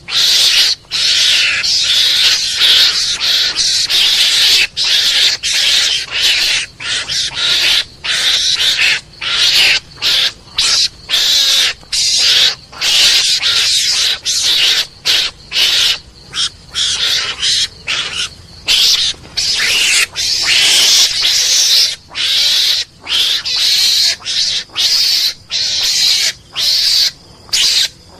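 Recorded mongoose calls played as a hunting lure: harsh, hissing squeals and chatter in short broken bursts, about one to two a second, with brief gaps between them.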